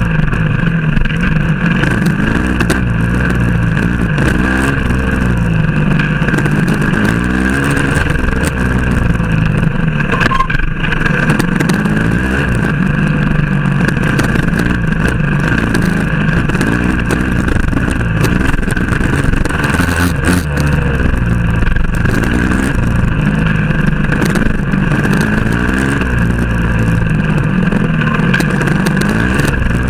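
Motorcycle engine running hard, its pitch rising and falling over and over as the rider works the throttle and gears on an off-road trail.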